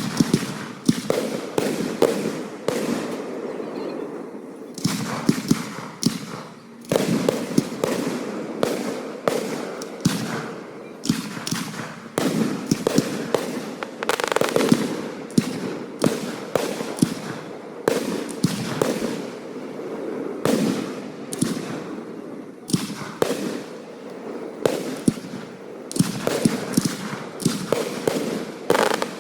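A fireworks display: aerial shells bursting in rapid, overlapping succession, many sharp bangs and crackles with hardly a pause.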